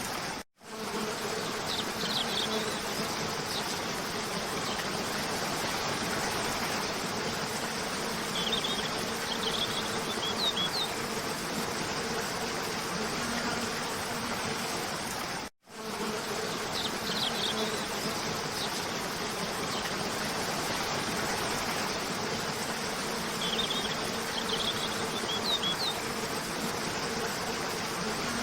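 Steady rush of a cascading waterfall under a low steady buzz, with small clusters of brief high bird chirps now and then. The sound cuts out for an instant about half a second in and again about halfway through, where the loop repeats.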